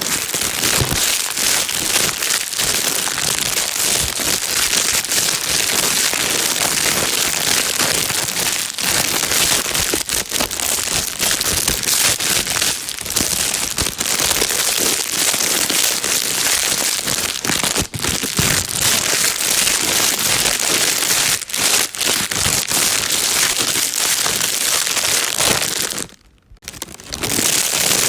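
Plastic bag being crinkled and rustled continuously, a dense crackling that keeps up throughout, with a brief pause about two seconds before the end.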